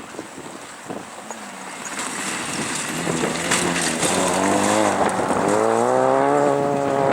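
Rally car approaching at speed, its engine getting steadily louder, with the engine note dipping and then climbing in pitch as it revs up through the second half.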